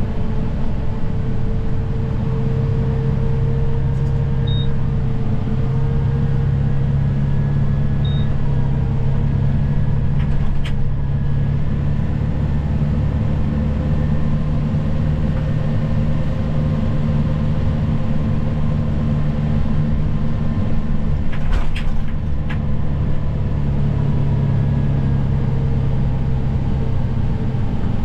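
Snow plow vehicle's engine running steadily under load, a constant low drone. Two short high beeps sound a few seconds apart early on, and a few sharp knocks come around the middle and again about three quarters of the way through.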